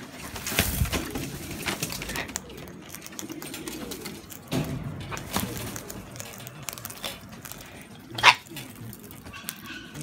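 Low, soft cooing bird calls from birds at a seed feeder, broken by a few sharp knocks, the loudest about eight seconds in.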